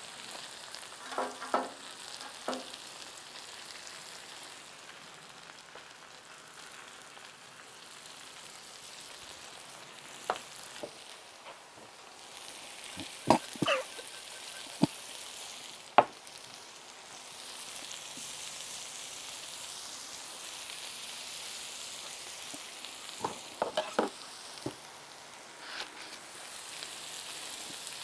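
Breaded fish fillets, hush puppies and sliced potatoes sizzling on a hot flat-top griddle, a steady frying hiss. Scattered sharp clicks and scrapes of a metal spatula and utensils on the griddle plate come through it, the loudest a few in the middle and a cluster near the end.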